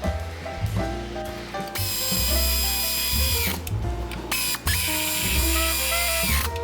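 A hand-held power tool runs in two bursts of a second and a half or more, its motor whine dropping as each burst ends, over background music with a steady melody.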